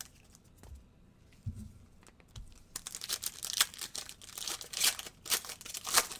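Crinkly plastic wrapper of a trading-card pack being torn open and crumpled, a dense crackling that starts about three seconds in, after a couple of soft thumps.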